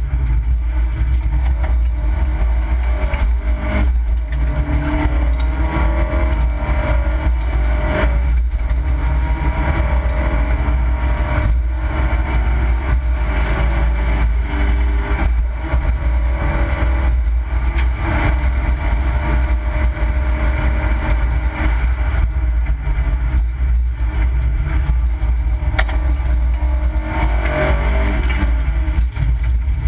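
Opel Corsa B rally car's engine at full effort, its pitch climbing and dropping again and again as it is driven hard along the stage, heard from inside the cabin. Steady low road rumble runs under it, with frequent knocks and rattles.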